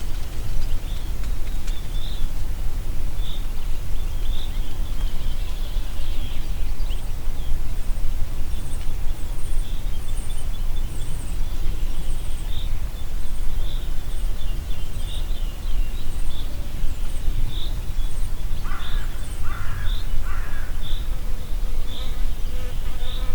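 Wind blowing through trees, heavy and low on the microphone, with a bird repeating a short high chirp about once a second and fainter high twitters. About nineteen seconds in, three harsh calls come in quick succession.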